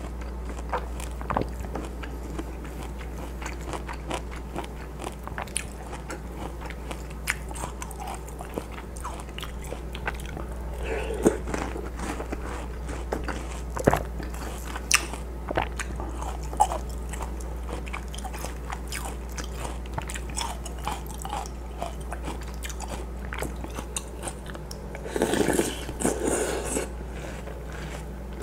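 Close-miked chewing and crunching of mouthfuls of watermelon hwachae, with many small sharp clicks and wet mouth sounds. A louder, noisy stretch of about two seconds comes near the end, over a steady low hum.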